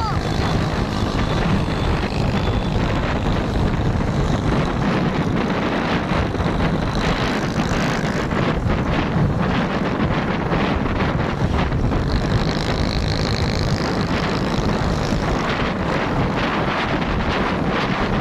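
Truck engine running steadily with a low rumble, with wind buffeting the microphone.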